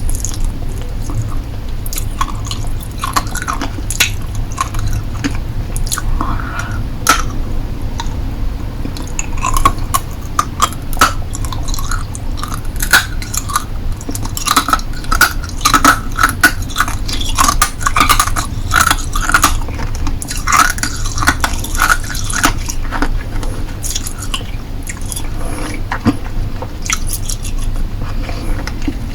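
Hard-candy lollipop being bitten and crunched between the teeth close to the microphone, with many sharp crackling snaps that come thickest in the middle stretch.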